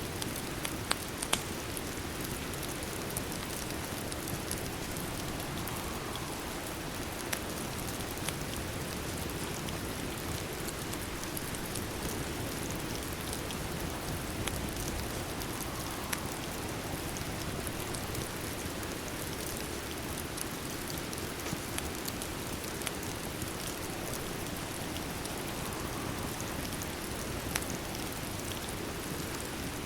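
Steady rain, with scattered sharp crackles and pops of a fireplace fire mixed in, a few louder ones about a second in.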